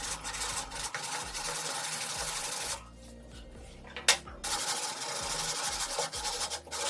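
A power tool working wood in two runs of steady whirring noise with a low motor hum, broken by a short pause with a click about four seconds in.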